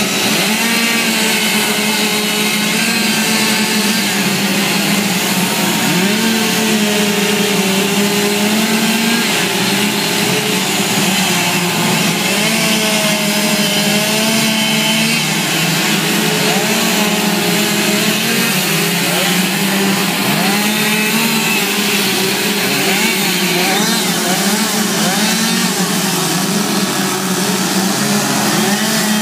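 Small two-stroke chainsaws running at high revs while carving wood, the engine note dipping and rising as the chain bites and frees. More than one saw seems to be running at once.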